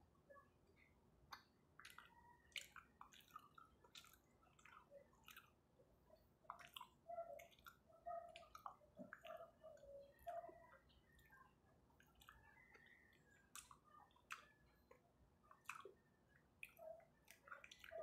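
Soft chewing and wet mouth clicks of someone eating chocolate moron, a sticky glutinous-rice cake, in irregular small smacks.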